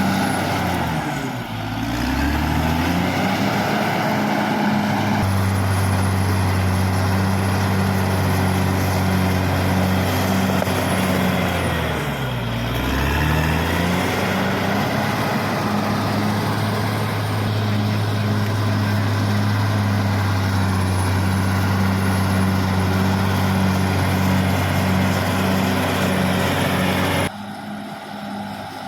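Caterpillar D6R XL bulldozer's diesel engine running hard, its engine speed dipping and climbing back twice, about a second in and again near the middle. Near the end the sound drops abruptly to a quieter engine.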